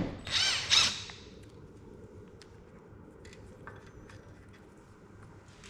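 A sharp metal clank, then a short squeaky metal scrape in the first second, as hand tools work on the hydraulic tank. After that it is quiet apart from a few faint clicks.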